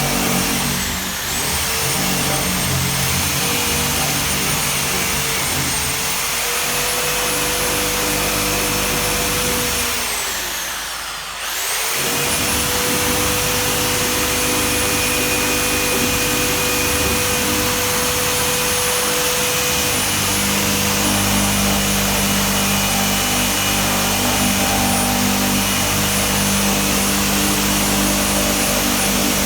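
A high-speed motor whining steadily over a low hum. Its pitch dips briefly about a second in, then falls away and quickly climbs back up around eleven seconds in.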